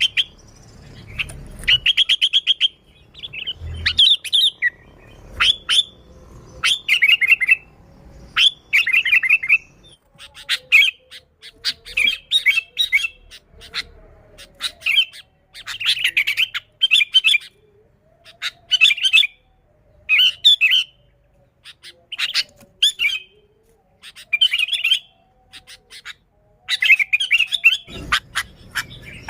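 Sooty-headed bulbul (kutilang) calling busily: short phrases of rapid chattering notes, each under a second, repeated every one to two seconds.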